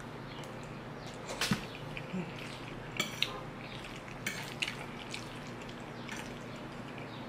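Close-up mouth sounds of chewing saucy macaroni, with a fork clinking and scraping on a plate several times as another forkful is gathered.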